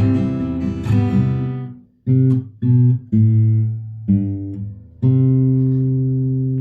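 Acoustic guitar playing a song's ending. The strumming fades out, then come four short chords, and a final chord is struck and left ringing.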